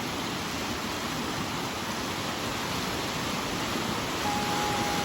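Steady rush of water pouring down the granite slab of Sliding Rock, a natural water slide. A thin steady tone comes in near the end.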